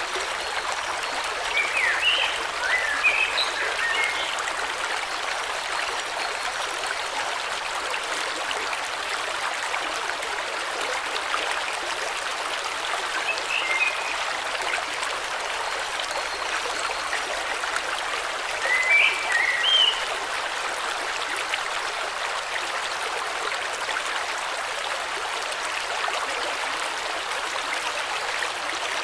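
River water flowing steadily, with short bursts of bird chirps over it: a few seconds in, near the middle, and again about two-thirds through.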